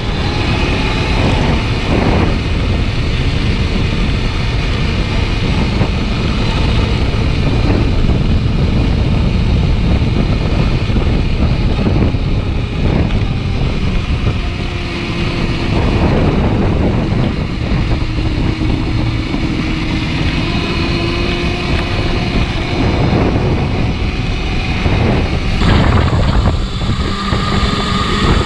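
Motorcycle being ridden, with wind rushing over the microphone and a faint running tone that drifts slowly up and down.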